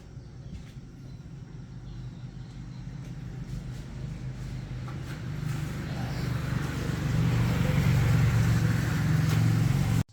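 A motor vehicle's engine running with a low rumble. It grows steadily louder over several seconds as it draws near or works harder, then cuts off abruptly near the end.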